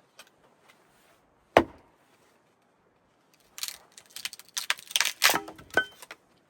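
A single sharp chop into wood, then a quick run of knocks and cracks, like pieces of wood being split and knocked together.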